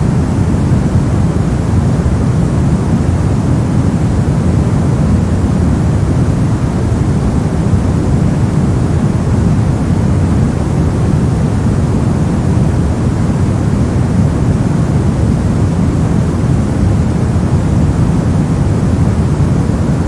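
Continuous generated noise for sleep masking, held perfectly steady. It is weighted toward the low end, so it sounds like a deep, dull rush rather than a bright hiss.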